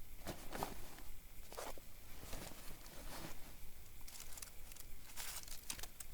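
Footsteps, a series of irregular steps about once a second.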